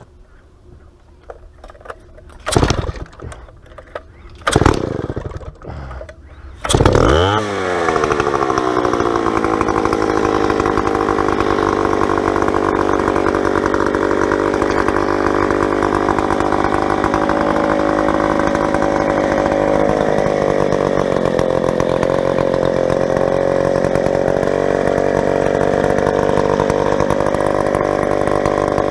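West German Stihl 090, a big two-stroke chainsaw, being started. Two brief bursts come first. It fires and catches about seven seconds in, its pitch settling quickly after it starts. It then runs steadily at high speed, driving the chain of a homemade log mill, with its pitch sagging a little past the middle as it takes load.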